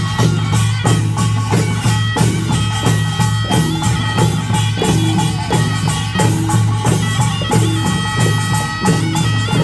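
Korean nongak farmers' band playing: a fast, even beat of small gongs and drums with heavy low drumming, and a shrill reed horn (taepyeongso) holding and stepping between notes above it.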